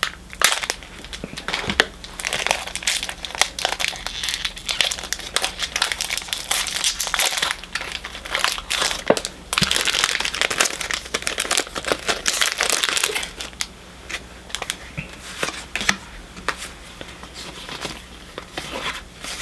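Foil Pokémon booster pack wrapper being torn open and crinkled, with the cards being slid out and handled. The crinkling is densest for the first two-thirds and lighter near the end.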